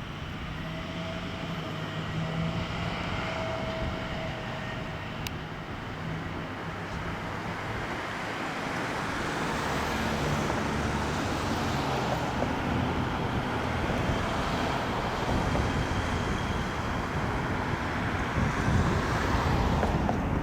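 Steady vehicle and engine noise with a low hum, growing louder through the second half.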